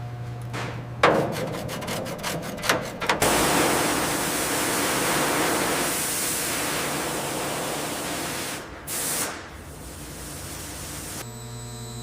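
A sharp knock, then about two seconds of rapid clicking, then a steady hiss lasting several seconds. A brief whoosh follows, and a low steady hum starts near the end.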